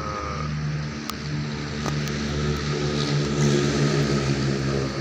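A motor running steadily: a constant hum with an airy whoosh over it.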